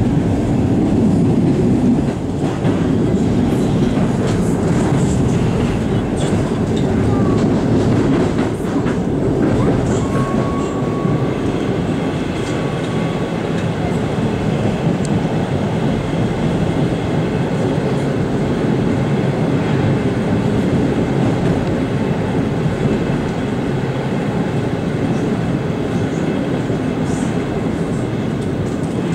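Inside a passenger coach of a running train: the steady rumble of the wheels on the rails, with a few sharp clicks in the first several seconds.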